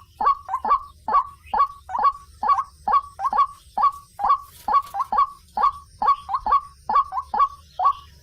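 White-breasted waterhen (ruak-ruak) calling: a rapid, unbroken run of short harsh notes, about three a second and often bunched in twos and threes, each rising sharply to its peak.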